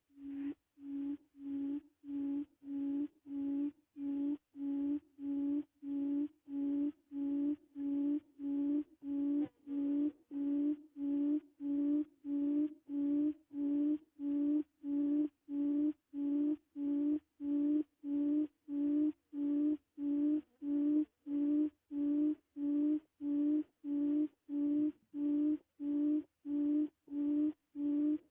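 A low hooting note near 280 Hz, repeated very evenly about 1.3 times a second. It is a quail call used to lure quail to a trap.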